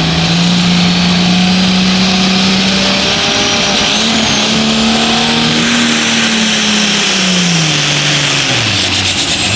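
Competition pulling tractor's engine running flat out at high revs under load during a pull, over a heavy rushing noise. About seven seconds in, the engine pitch drops steeply as it comes off the throttle.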